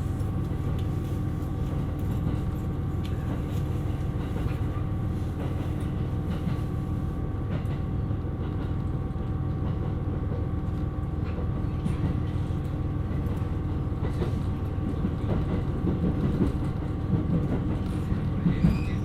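Running sound of a JR West KiHa 127 series diesel railcar: a steady low rumble of wheels on rail, with a few steady tones from the engine and drivetrain and scattered faint clicks. A faint high squeal begins at the very end.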